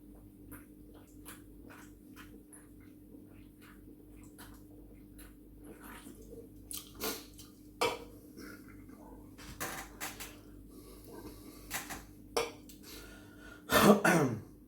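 Close-up handling sounds at a meal: scattered small clicks and knocks of food packaging and tableware, some louder after about six seconds, and a loud, brief noisy burst near the end.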